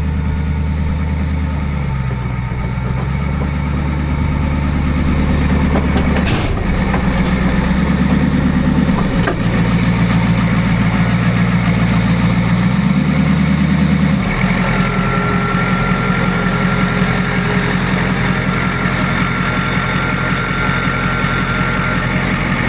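Truck engine running under way, its pitch rising and falling several times as it is driven. About 14 seconds in it changes abruptly to a steadier running note.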